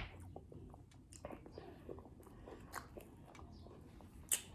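A person chewing food close to the microphone, with scattered small crunches and wet mouth clicks, a sharp click at the start and a louder one near the end.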